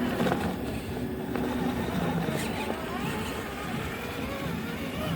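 Traxxas 6x6 RC truck's electric motor and geared drivetrain whining as it crawls over rocks, the pitch rising and falling with the throttle, with scattered clicks and knocks of the tyres and chassis on stone.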